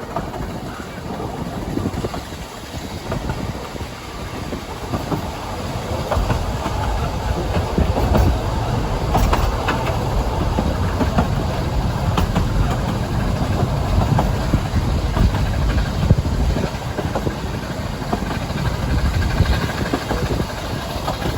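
A narrow-gauge Ffestiniog Railway train running on the track, with wheels clattering over rail joints; the low rumble grows louder from about six seconds in.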